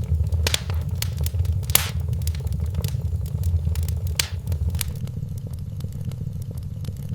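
Wood fire crackling in a fireplace: sharp pops and snaps over a steady low rumble. The pops come thick for about the first five seconds, then thin out to faint, sparse ticks.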